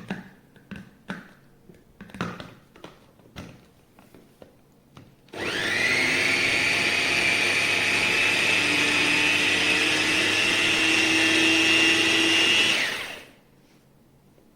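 Electric food chopper with a 350 W motor running for about seven seconds. Its high whine rises quickly as it spins up and drops away as it stops. Before it starts there are several light clicks and knocks.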